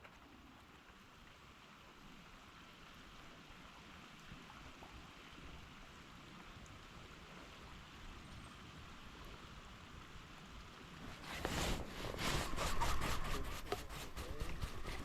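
Faint, steady rushing of a swollen creek. About eleven seconds in, a much louder rapid run of knocks and rustles close by starts, several a second.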